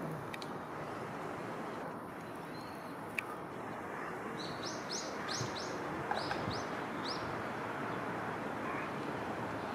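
A small bird calling: a quick run of about eight short, high chirps starting a little after four seconds in, over a steady background rush of outdoor noise.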